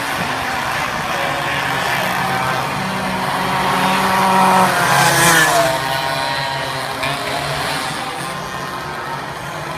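Several racing minibike engines running at high revs, their pitches rising and falling as they accelerate and shift, with one bike passing close and loud about five seconds in.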